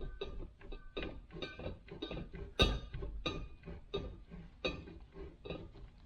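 Metal parts and hand tools clinking and knocking against each other during the dismantling of a steering gearbox, in a quick irregular string of sharp clinks with a short ring, one louder knock about two and a half seconds in.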